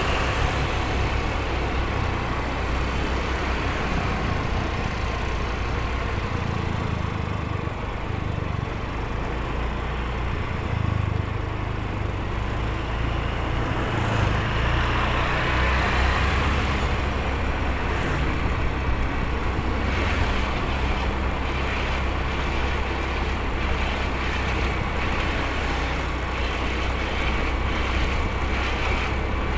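Motorcycle riding along the road: steady engine and road noise with a deep low rumble that swells and eases.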